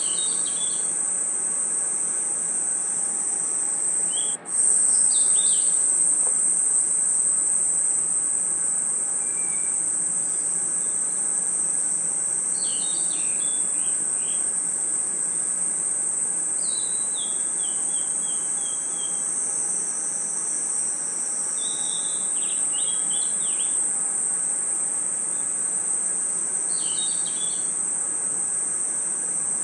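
Night chorus of crickets and other insects: a steady, high-pitched trilling. Groups of short chirping calls come every few seconds over it, one of them a quick descending series. The sound breaks off for a moment about four seconds in.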